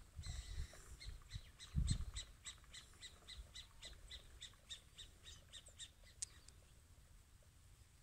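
A bird calling in a long, even series of short calls, about three to four a second, that stops about six and a half seconds in. Low rumble on the microphone underneath, loudest about two seconds in.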